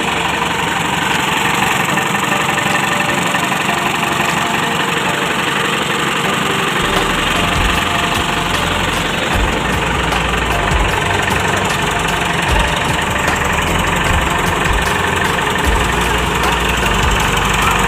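JCB 444 four-cylinder diesel engine running steadily, its low rumble growing heavier about seven seconds in.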